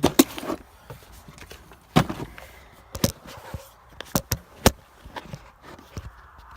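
A handful of sharp knocks and clicks, spread a second or so apart, as the nitro RC truck is handled and set in position; its engine is not running.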